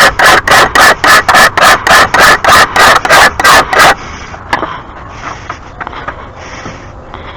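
Rhythmic scraping strokes on a steel lawn mower blade, about three a second, taking metal off the blade's heavy end to balance it. The strokes stop about four seconds in, followed by a knock and a few light clicks.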